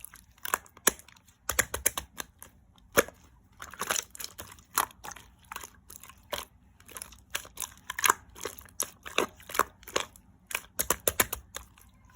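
Clear slime being squished and pressed by hand, giving irregular sticky clicks and pops, often several in quick succession.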